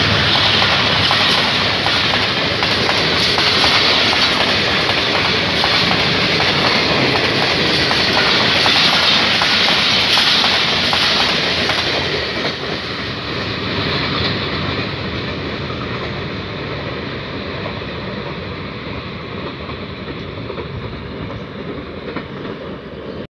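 Passenger coaches of an express train passing close by at speed, their wheels running loudly over the track; after about twelve seconds the noise slowly fades as the train moves away.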